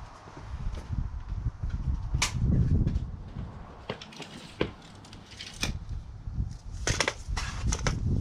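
Handling noise from workshop tools being picked up and moved: scattered sharp clicks and knocks over irregular low rumbling, with a quick cluster of clicks near the end.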